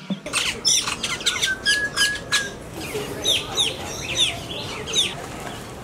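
Birds chirping: a quick run of short, high calls that sweep downward, with one held whistle lasting about a second around two seconds in.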